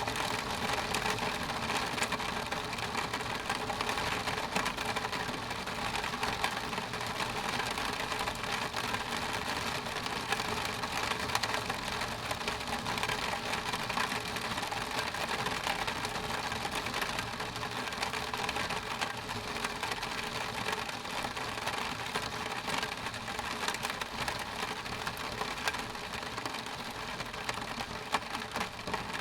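Steady rain on a window pane: a dense, even haze of fine drop ticks on the glass.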